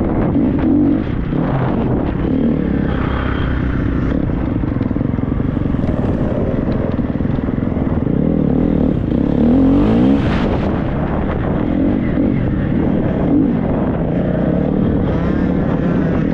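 Triumph 250 four-stroke single motocross bike's engine under hard riding off-road, its revs rising and falling again and again, with a sharp rev-up about ten seconds in and occasional knocks.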